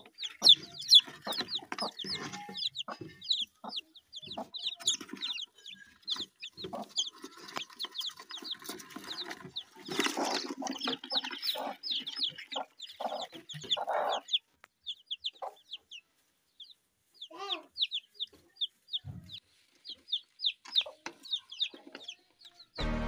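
Birds calling: a quick run of short high chirps that comes and goes, with scattered lower calls in between.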